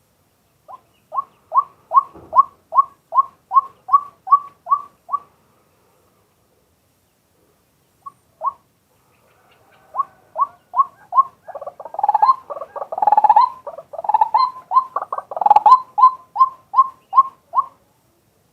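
Male white-breasted waterhen calling: a run of about ten evenly spaced ringing notes, roughly two and a half a second, then after a pause of several seconds a longer run that turns busy and overlapping in the middle before settling back to even notes near the end.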